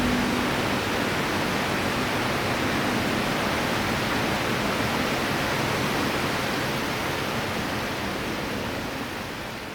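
Steady rush of a flowing river, fading out gradually over the last few seconds.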